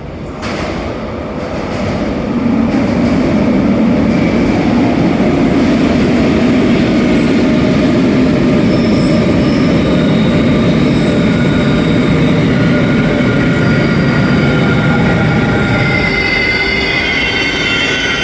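RER A double-deck electric train running into an underground station. Its rumble builds over the first couple of seconds and then holds steady. Near the end, several high squealing tones from the wheels and brakes come in.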